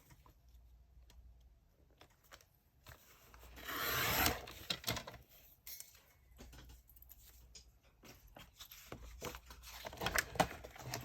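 Cardstock and paper scraps being handled on a desk: a brief swishing rub about four seconds in, then scattered light taps and rustles.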